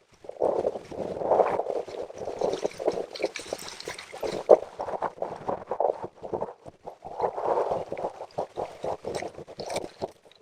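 River water gurgling and splashing unevenly.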